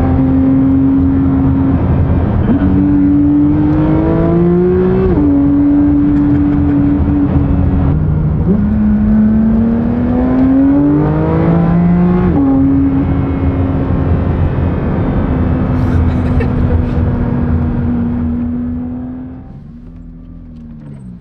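Porsche 992 GT3 RS naturally aspirated flat-six with a valved titanium F1-style exhaust, driven hard. The engine note climbs in pitch and drops back twice as it pulls and shifts, holds a steady note, then falls away and quietens near the end.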